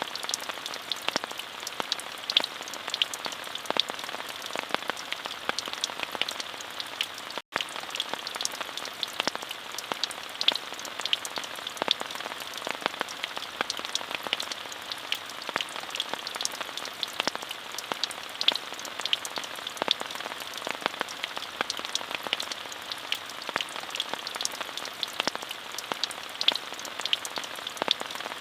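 Steady rain falling, a constant hiss with many separate drops ticking close by. The sound drops out for a split second about seven and a half seconds in.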